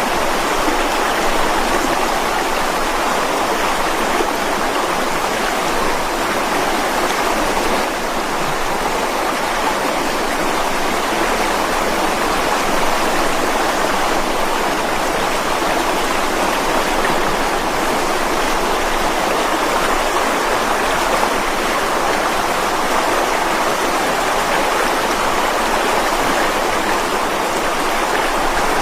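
Mountain stream rushing over rocks, a steady, even sound of flowing water.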